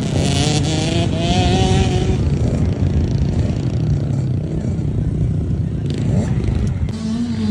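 Small dirt bike engines running hard during a motocross race, revving and rising in pitch over the first two seconds and again about six seconds in.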